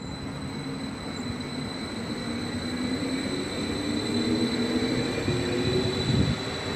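Regional electric multiple unit train moving along the platform: rail rumble with a steady electric whine that rises slightly in pitch and grows louder toward the end.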